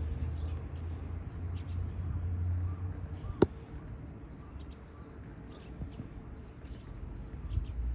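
Yamaha Serow 225's single-cylinder four-stroke engine running as a low steady rumble, which drops away about three seconds in; a single sharp click follows, and the rumble comes back near the end. Faint bird chirps sound in the background.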